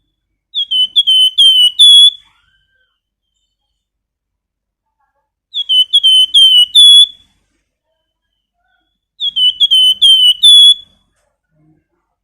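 Flamboyan songbird giving its whistled 'nyiul' call: three phrases about four seconds apart, each a quick run of five or six high, down-slurred whistles ending on a slightly higher note.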